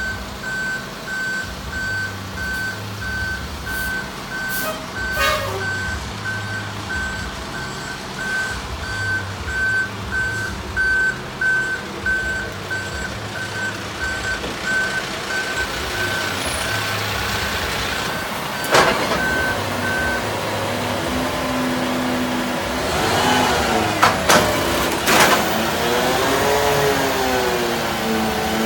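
Hook-lift waste truck backing up: its reversing alarm beeps about one and a half times a second over the running engine, then stops about twenty seconds in. A few sharp metal clanks follow, with a whine that rises and falls.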